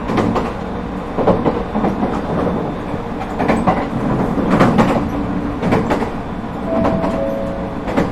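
Interior running sound of an ET127 series electric train: steady low rumble of the wheels on the track with irregular clicks and knocks. Near the end, a short steady tone steps down to a lower pitch.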